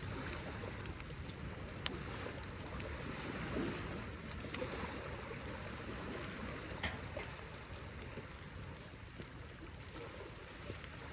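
Steady rushing outdoor noise of wind and lapping water, with a couple of single sharp clicks.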